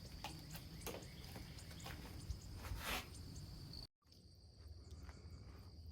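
Faint, steady high-pitched insect trill with a few faint ticks, broken by a moment of dead silence about four seconds in.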